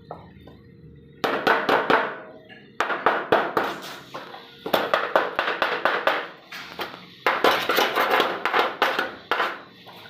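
Arc welding on hollow steel tubing in short on-off runs: each run is a burst of rapid crackling that lasts a second or two and then stops, repeated about six times.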